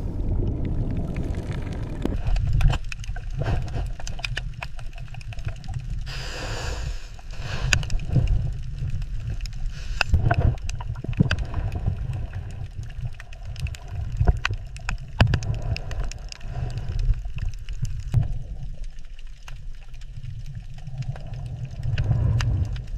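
Underwater ambience: a steady low rumble with scattered clicks and gurgling, and a brief rushing burst about six seconds in.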